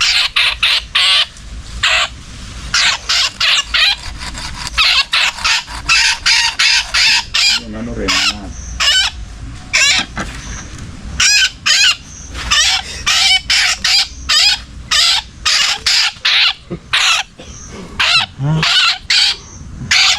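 Birds squawking in loud, shrill calls, many times in quick succession and with wavering pitch.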